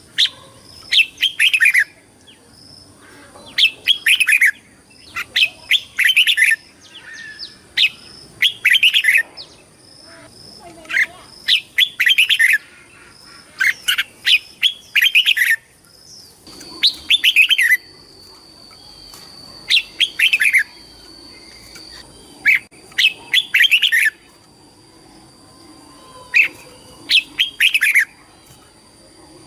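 Red-whiskered bulbul singing: short, loud, warbling song phrases repeated about every two seconds.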